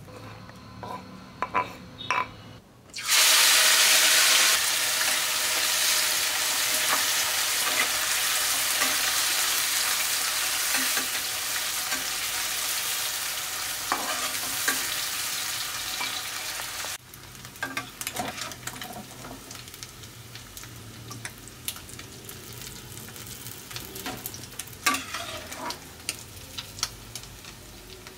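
A few knife chops on a wooden board, then prawns frying in hot oil: a loud, steady sizzle that starts suddenly about three seconds in. Near the middle the sizzle drops to a faint one, with a metal spatula clicking and scraping against an iron kadai.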